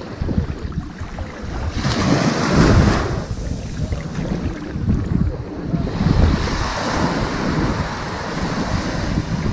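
Ocean waves washing up onto a sandy beach: a steady rush of surf, with one wave surging in about two seconds in and another building from about six seconds and running on.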